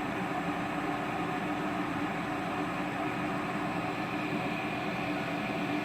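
Electric tea kettle with water at a rolling boil: a steady, even rushing noise.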